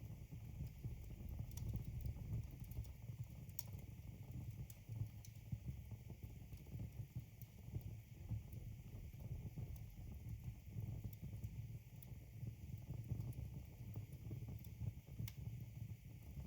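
Wood logs burning in a fireplace: a low, steady rumble of flames with scattered sharp crackles and pops, a clear pop about three and a half seconds in and another near the end.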